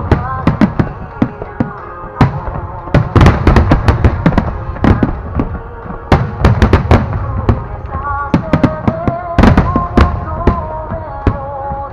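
Large aerial fireworks shells bursting in rapid volleys: many sharp bangs and crackles, some in tight clusters, with a few lighter gaps. Under them, accompanying music plays a slow, held melody.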